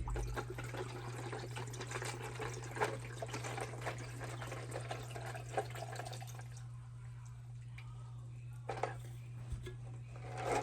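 Blueberry lemonade flavored water being poured into a cup, a steady splashing for about six seconds that then stops, followed by a single short knock.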